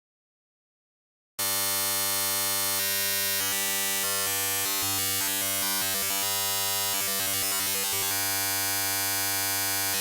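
Native Instruments Absynth 5 wavetable oscillator playing a complex wavetable: a steady sustained note rich in overtones with a clear pitch, not yet noise. It starts suddenly about a second and a half in, after silence.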